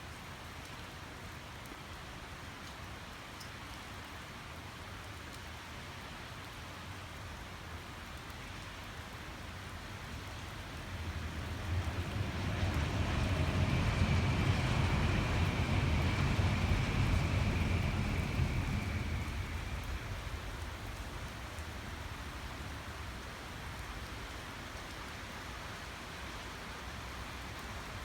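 A Tokaido Shinkansen bullet train passing at speed: a low rushing rumble swells about eleven seconds in, stays loud for several seconds with a faint high whine over it, then fades away. A steady noisy hiss lies under it before and after.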